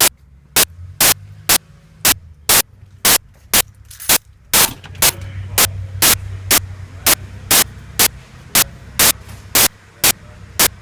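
Sharp, loud clicks repeating evenly about twice a second over a steady low hum.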